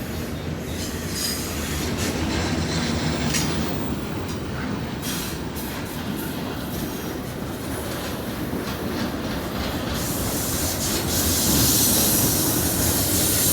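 Cars of a long BNSF stack freight train rolling past, with steel wheels clattering on the rails and squealing. The high wheel noise grows louder over the last few seconds.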